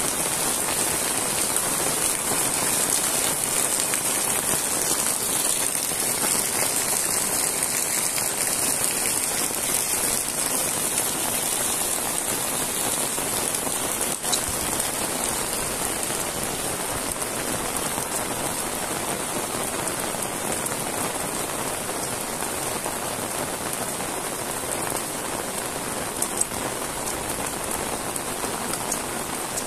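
Heavy rain falling steadily on paving stones, leaves and roofs.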